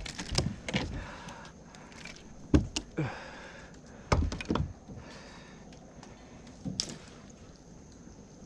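Irregular knocks and thumps against a kayak, several in quick pairs, with rustling between them, as a just-landed speckled trout is handled aboard.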